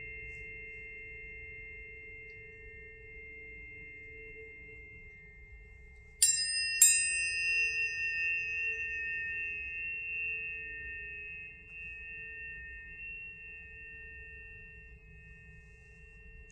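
Tuning forks ringing: several steady pure tones sustain together, then two forks are struck about six seconds in, half a second apart, with a bright ping, and ring on, slowly fading.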